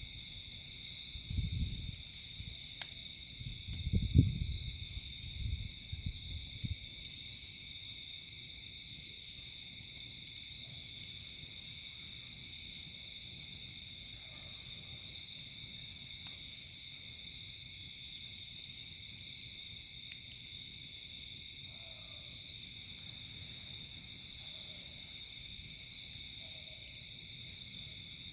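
Steady shrill chorus of insects, crickets and the like, with pulsing high chirps repeating throughout. A few low rumbling thumps come in the first six seconds.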